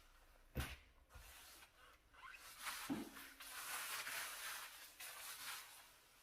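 Kitchen cleaning on a stove or oven: a light knock, then about three seconds of scrubbing, a rough fluctuating rasp with a second knock as it starts.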